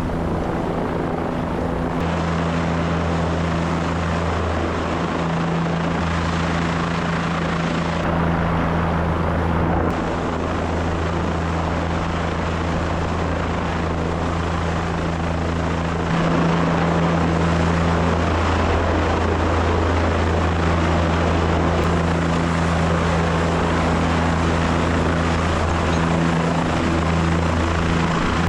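Helicopter in flight: a steady rotor and engine noise with a constant low hum and a dense rush of noise above it, growing a little louder about halfway through.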